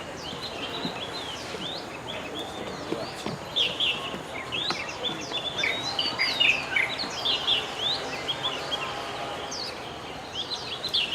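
Several birds chirping and calling: many short, high chirps and quick sweeping notes, busiest from about four to eight seconds in, over a steady background hiss.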